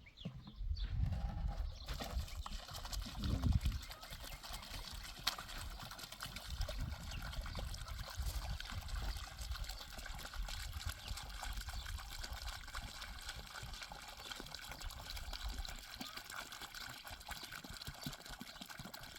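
Water running or trickling steadily, with a low rumble underneath for most of it.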